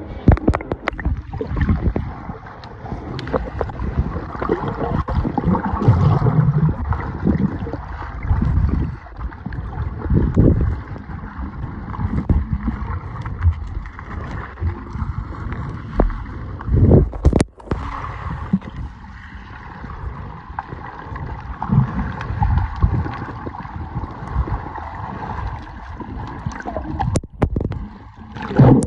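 Moving river water heard from underwater: a muffled, continuous churning gurgle with irregular low knocks.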